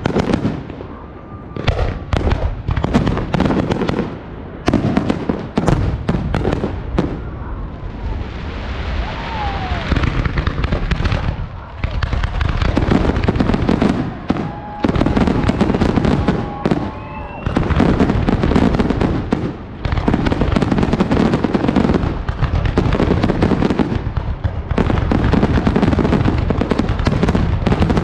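A fireworks display: aerial shells bursting with crackle, first as separate bursts with short gaps, then as a near-continuous barrage over the second half.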